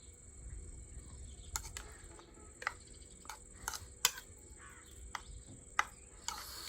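Close-up eating sounds in a mukbang: scattered sharp clicks and smacks of chewing, with a short noisy rush near the end, over a steady high-pitched tone in the background.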